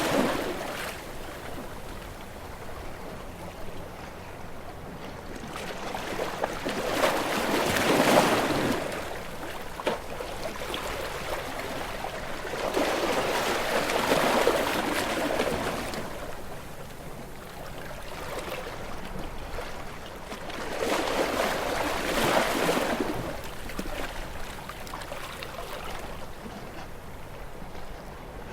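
Ocean waves breaking and washing in: one wash fading at the start, then three surges of surf rising and falling about seven seconds apart, with a softer hiss of water between them.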